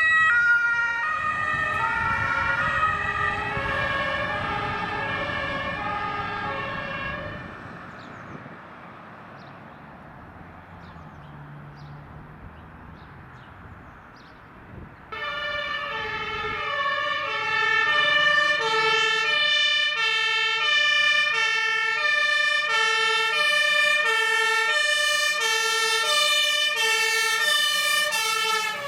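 German two-tone fire brigade sirens (Martinshorn) on vehicles driving on an emergency run. The first siren fades away after about seven seconds, leaving a quieter vehicle and road rumble. About halfway through, a second siren on an LF10 fire engine starts abruptly and keeps alternating steadily between its two notes.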